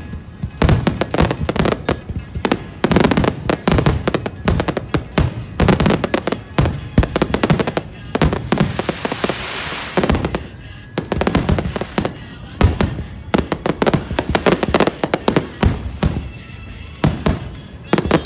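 Fireworks exploding in rapid succession: many sharp bangs close together, with a crackling hiss about halfway through.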